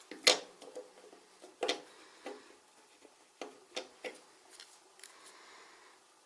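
Plastic building bricks clicking and clattering as the pieces are handled and pressed together. A sharp click comes just after the start, then several more over the next few seconds, and there is a soft rustle near the end.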